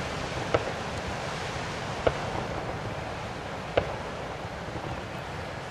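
Fireworks exploding, with three sharp bangs about one and a half seconds apart over a steady rushing background noise.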